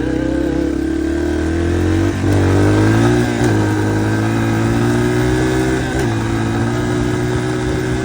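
Dirt bike engine running under throttle while riding, its pitch dropping sharply about two seconds in and again near three and a half seconds, then climbing and holding.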